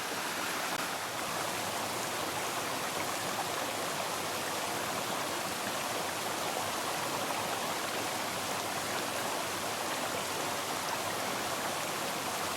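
A small mountain creek running over rocks: a steady, even rush of water.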